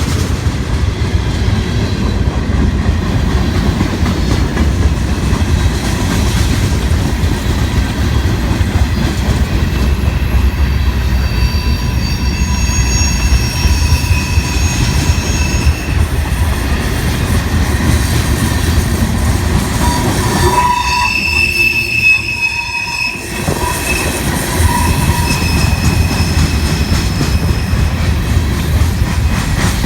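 Freight train rolling past, its cars rumbling steadily on the rails. High wheel squeal comes and goes from about a third of the way in, strongest about two thirds through.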